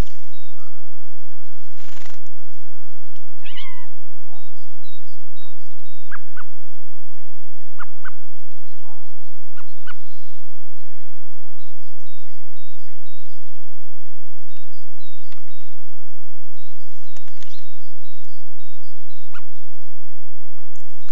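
Small wild birds calling: scattered short high chirps and runs of a repeated high note, with a louder, longer call about three and a half seconds in.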